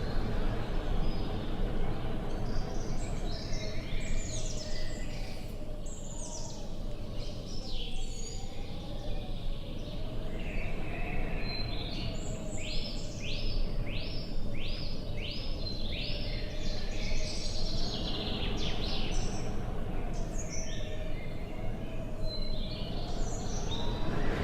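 A steady low rumble of wind under several small birds singing and chirping. About halfway through, one bird gives a quick run of about six falling notes.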